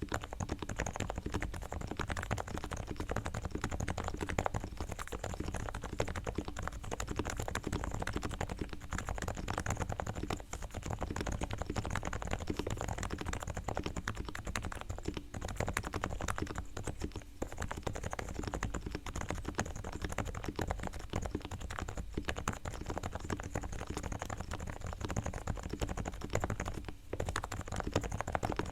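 Continuous fast typing on a Realforce R3 TKL silent Topre keyboard with 45 g equal-weight switches, fully tuned: sliders and springs lubed with Krytox, stabilizers straightened and lubed, and Thinsulate dampening inside the case. The keystrokes come as a dense, steady stream of soft clicks.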